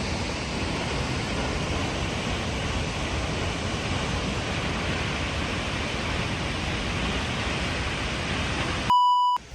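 Månafossen, a 92-metre waterfall, rushing as a steady, even roar of falling water. Near the end the roar cuts off abruptly and a short electronic beep sounds.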